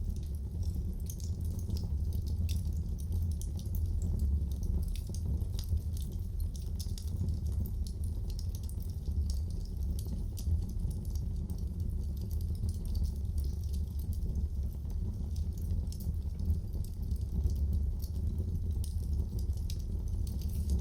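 Wood fire crackling in a fireplace: irregular small sharp pops and ticks over a steady low rumble of the burning.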